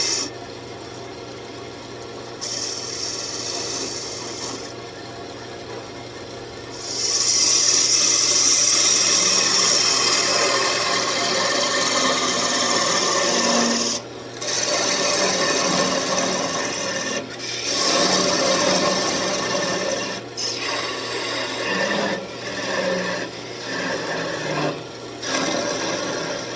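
Sandpaper held against a wooden piece spinning on a wood lathe, a steady rasping hiss over the lathe motor's hum. The hiss gets much louder about seven seconds in and breaks off briefly several times as the paper is lifted and pressed back on.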